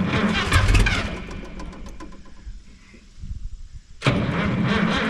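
Starter cranking the Minneapolis Moline G900 LP tractor engine. The engine fires once about half a second in without catching, the cranking weakens and falters in the middle, then resumes steadily near the end. The weakening cranking is the sign of a battery running down.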